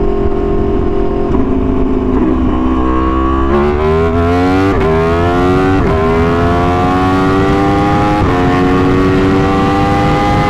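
Aprilia Tuono V4 1100's V4 engine through an SC-Project exhaust, pulling hard under way: the revs climb and drop sharply at each gear change, several shifts in a row.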